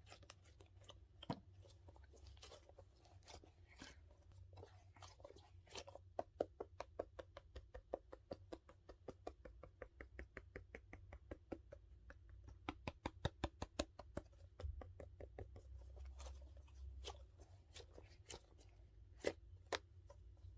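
Faint ASMR handling sounds from a dumpling-shaped squishy toy and its case. Scattered soft clicks, and through the middle a fast, even run of light taps, about seven a second.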